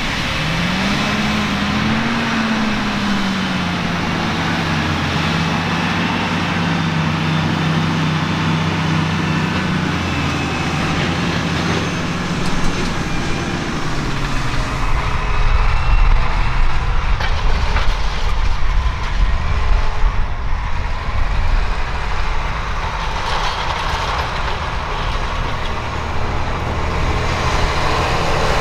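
Tractor engine running under load, its pitch rising briefly about a second in and then holding steady. From about halfway it gives way to a rougher, deeper machine rumble.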